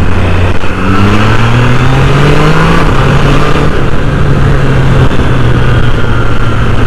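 Triumph Trident 660's three-cylinder engine accelerating. It rises in pitch for about two seconds, drops at a gear change about three seconds in, then runs fairly steady.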